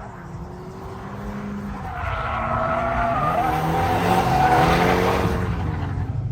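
Drift car's engine revving hard with tyres squealing as it slides, getting louder from about two seconds in and dropping away near the end.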